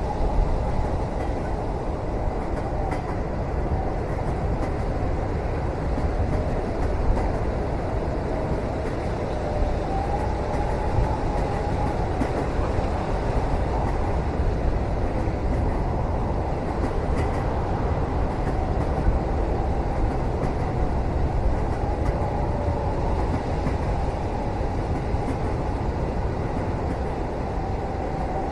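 Steady rumble of a train running, heard from inside a passenger cabin, with a faint wavering whine and a few light clicks.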